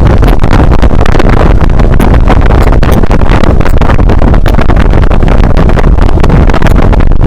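Loud, steady wind buffeting on the bare microphone of an uncased Xiaomi Yi action camera while riding at speed, a dense low rumble that overwhelms the mic.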